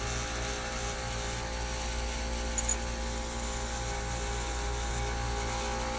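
Heat pump condensing unit running with its compressor on, a steady electrical-mechanical hum: the unit is now cooling. A brief small click about two and a half seconds in.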